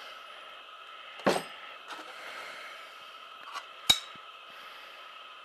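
A few light knocks and clicks of objects being handled, the sharpest about four seconds in, over a faint steady hiss.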